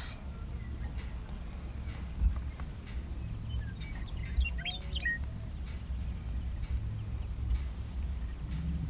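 Crickets trilling steadily at one high pitch, with a few short bird chirps about four to five seconds in, over a low rumble.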